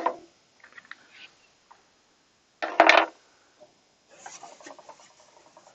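Wooden birdhouse pieces being handled on the bench: a sharp wooden knock about three seconds in, then light scratching and rubbing.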